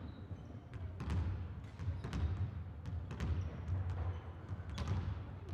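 Volleyballs being struck and bouncing on an indoor court: a dozen or so irregular sharp smacks and thuds over a low, steady hall rumble.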